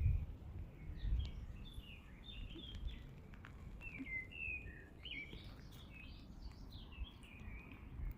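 Small songbirds chirping and twittering in quick, varied short notes, over a low rumble with a few soft low bumps, the strongest at the start and about a second in.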